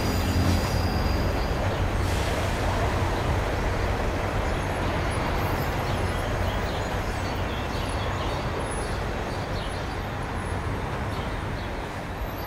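A train running, a steady rumbling noise that slowly fades.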